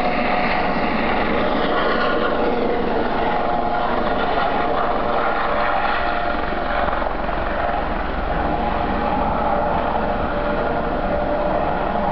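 Police helicopter hovering: a steady, loud drone of rotor and engine.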